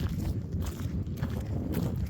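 Footsteps of people walking on a trail, about two to three steps a second, over a steady low rumble.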